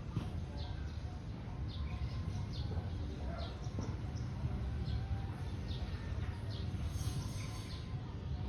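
Small birds chirping: short, high, downward-sliding notes repeated every half second or so, over a steady low rumble.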